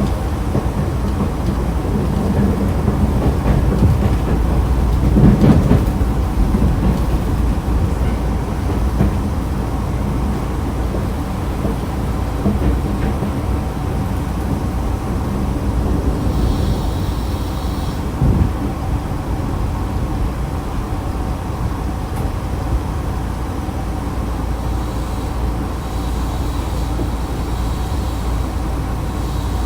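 Running sound inside a Nankai electric train car: a steady low rumble of wheels on rail with occasional knocks, easing as the train slows for the next station. About 16 to 18 seconds in there is a brief high squeal.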